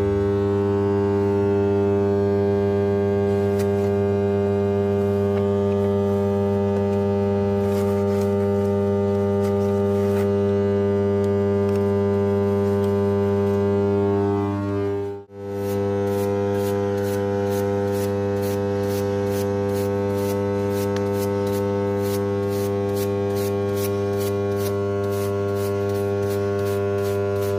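Steady electrical hum with many overtones, cut off briefly about halfway through, then resuming with faint ticks about three times a second.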